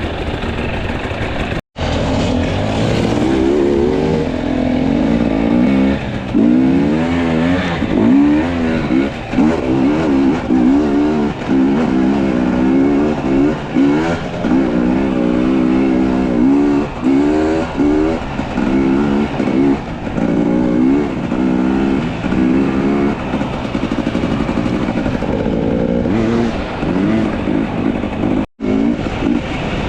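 Two-stroke enduro dirt bike engine under load, revved up and let back down over and over, about once a second, as the throttle is worked on the trail. The sound cuts out for an instant twice, once about two seconds in and once near the end.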